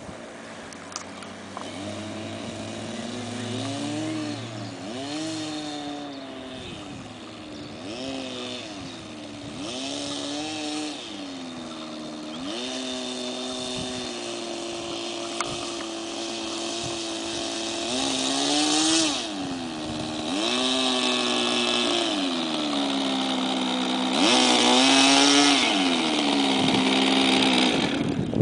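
Model plane's O.S. rotary glow engine and propeller running, its pitch rising and falling again and again with throttle changes and growing louder in the second half.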